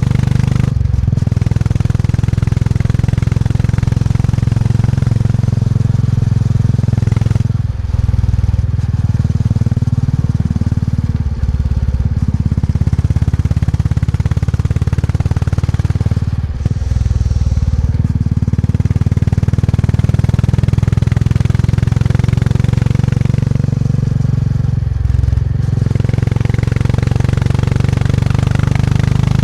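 Motorcycle engine running steadily under way on the road, a loud low engine note that drops briefly about four times.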